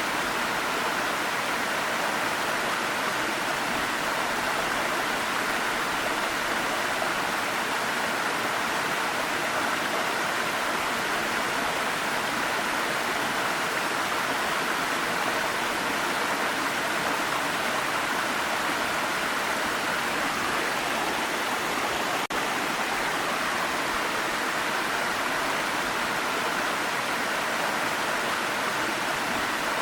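Waterfall rushing steadily, a constant roar of falling water with no break except one momentary dip about three-quarters of the way through.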